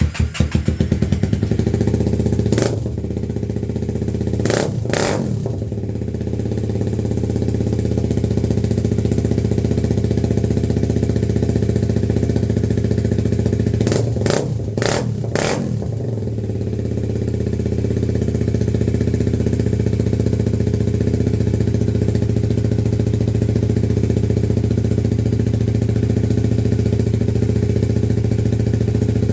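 Motorcycle V-twin engine just after a cold start, running with its throttle blipped a few times a few seconds in and again about halfway, then settling into a steady idle.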